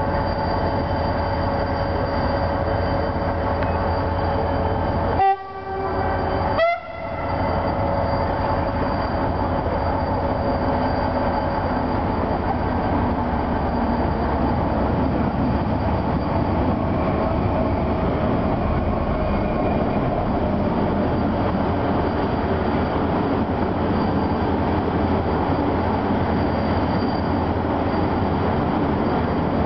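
Diesel passenger train pulling into the station and rolling past below: a steady engine hum with a few held tones, then the continuous rumble of the coaches as they come in. Two short sharp spikes, each followed by a brief drop in sound, fall about five and seven seconds in.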